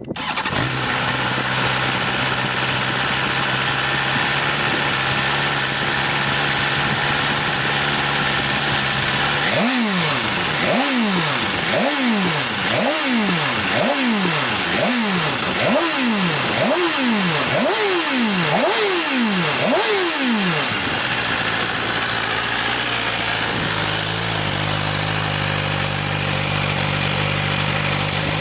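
BMW S1000RR inline-four engine running through an Akrapovič titanium exhaust. It idles steadily, then is blipped repeatedly, about once a second, each rev rising sharply and falling back, and settles back to idle for the last several seconds.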